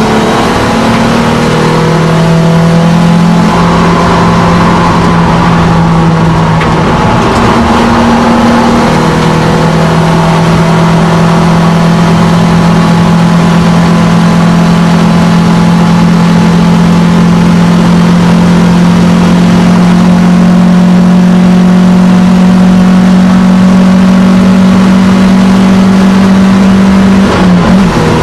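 Alfa Romeo GTV's engine heard from inside the cabin, running hard on track with road and wind noise: a gear change about eight seconds in, then a long steady drone slowly climbing in pitch, dropping abruptly near the end.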